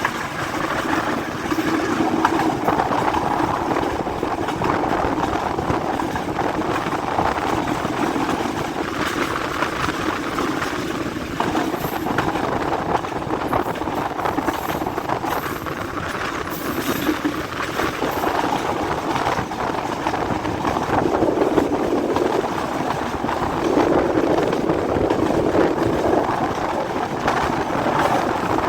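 Passenger express train running along the track, heard from aboard: a steady rumble of wheels on rails and the carriage in motion.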